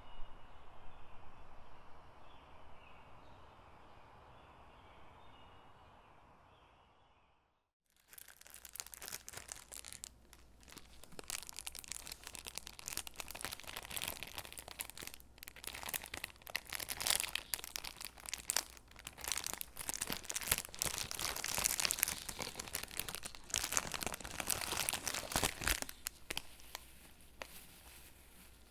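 A quieter background sound fades out over the first seven seconds. After a brief silence, stickers are peeled off their backing sheet and pressed onto paper gingerbread cutouts, with close-up crackling, peeling and rustling of paper and many small sharp clicks.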